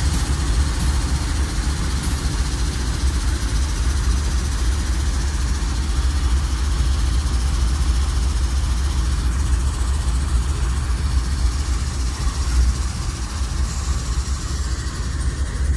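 Norfolk Southern freight train going by: the steady, deep sound of diesel locomotives and rolling cars.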